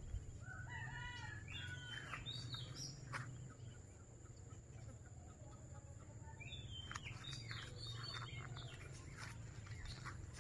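Birds calling faintly in two bouts of short chirping notes, the first about half a second in and the second around six and a half seconds in. A steady low hum and a thin high-pitched whine run underneath.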